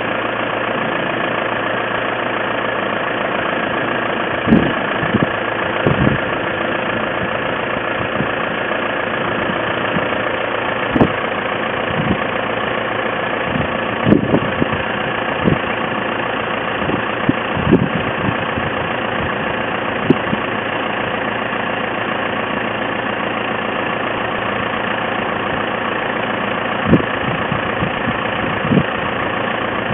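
Tractor engine idling steadily, with about nine short knocks and clunks scattered through it.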